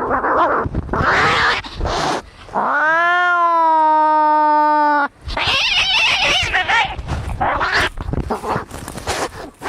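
Angry cats fighting: harsh, noisy screeches and spits, with one long, steady-pitched yowl from about three to five seconds in.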